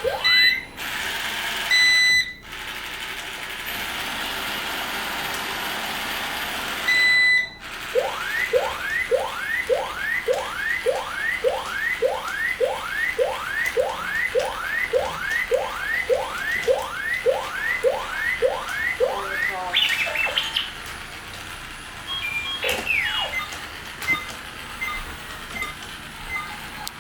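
Electronic robot sounds: a long beep, a stretch of steady whirring, a short beep, then about twenty rising whistles in a row, nearly two a second, followed by a few scattered chirps.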